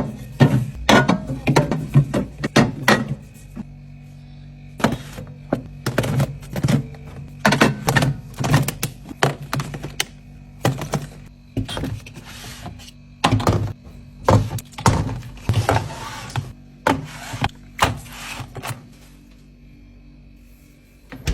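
Irregular clunks, taps and knocks of packaged groceries and containers being set down and placed into a mini fridge, with short spells of packaging rustle between them.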